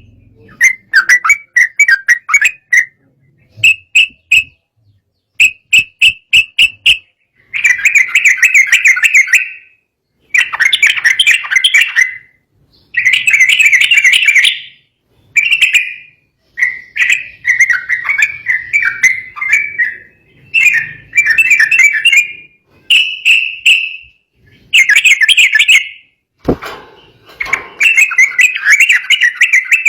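Yellow-vented bulbul (trucukan) singing in an agitated, fired-up state: rapid chirping phrases of one to two seconds with short pauses between them.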